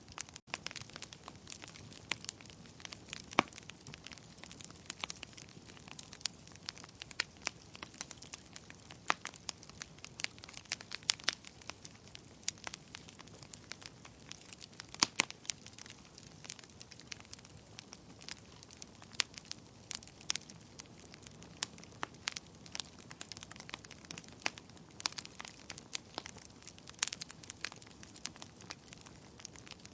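Fireplace fire crackling: a soft steady hiss with irregular sharp pops and snaps, several a second, a few much louder than the rest.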